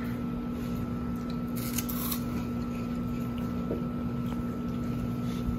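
Faint crunching and chewing of cheese puffs, with a few short crackles about a second and a half in, over a steady background hum.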